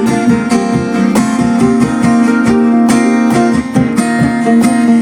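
Live music: an acoustic guitar strummed in a steady rhythm during an instrumental gap between sung lines of a country song.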